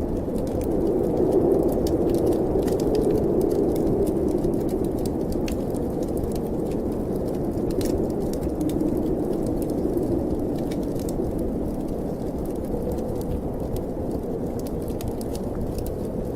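Wood fire crackling in a fireplace with scattered small pops, over the steady low rush of snowstorm wind.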